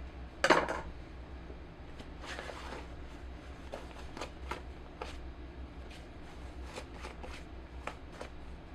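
Hands handling the repaired jacket's fabric: a loud rustle about half a second in, then scattered light rustles and clicks.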